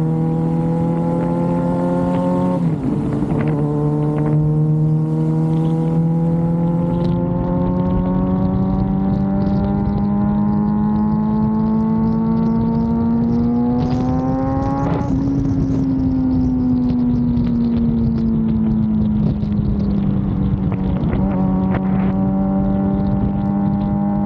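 Suzuki GSX-R750 sport bike engine cruising, heard from the rider's seat with wind rushing past. There is a gear change about three seconds in, then the engine note rises slowly under gentle throttle to a peak about halfway through and slowly falls away again as the bike eases off.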